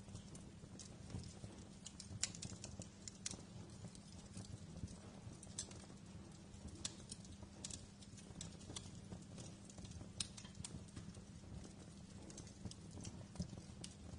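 Wood fire crackling in a fireplace: irregular, sharp pops and snaps, several a second at times, over a low steady hum.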